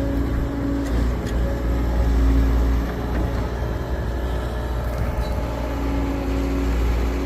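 Heavy machine's engine running steadily with a deep rumble, its tone swelling and easing, with a couple of light knocks about a second in.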